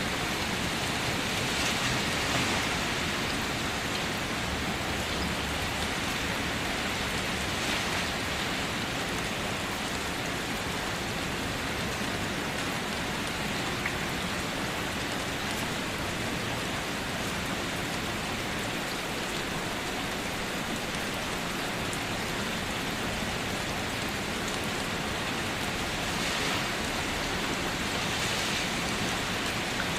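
Steady rain drumming on a car's roof, heard from inside the car as a dense, even patter with a few brief heavier swells.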